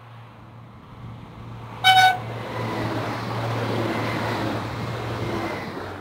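SNCF X 76500 diesel multiple unit giving one short, single-note horn toot about two seconds in, then passing close by. The rush of its running and of its wheels on the rails rises and eases off near the end.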